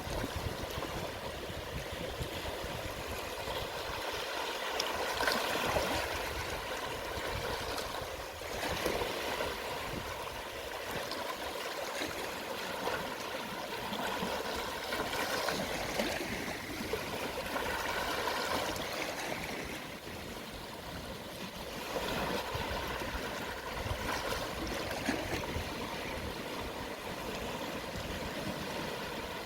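Small, gentle sea waves washing and lapping on the shore at low tide, swelling and fading every few seconds.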